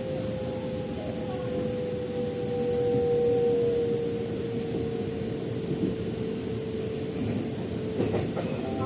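Metro train running on rails: a steady rumble with a motor whine that slowly falls in pitch as the train slows. A few knocks come near the end.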